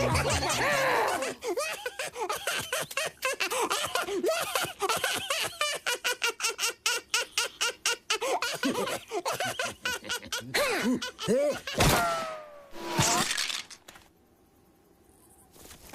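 Cartoon sound effects: squeaky, chattering character vocal sounds mixed with rapid clicks and clatter, then two sudden crashes with falling whistle tones about twelve and thirteen seconds in, followed by a short hush.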